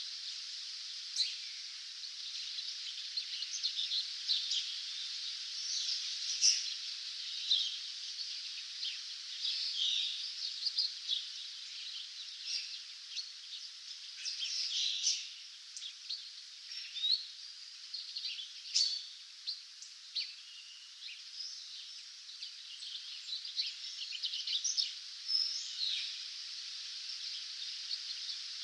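Several wild birds chirping and singing in a dawn chorus, short calls scattered throughout, over a steady high hiss.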